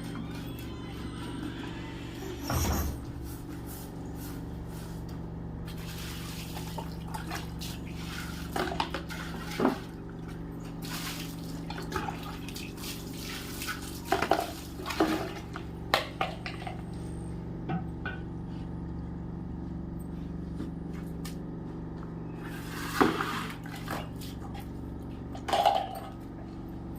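Earthen ghee pots being washed with water: splashing and pouring, with scattered knocks and clinks of the pots, over a steady low hum.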